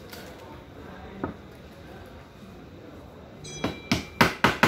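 Metal clinking and tapping from work on a steel watch bracelet: a single click about a second in, then a quick run of about six sharp metallic taps near the end.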